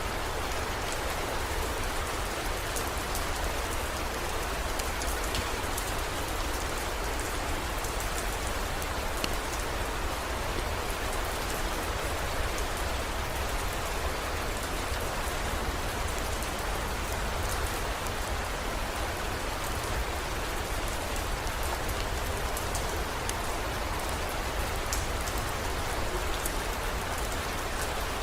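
Steady heavy rain, an even hiss with scattered sharp drop ticks, over a steady low rumble.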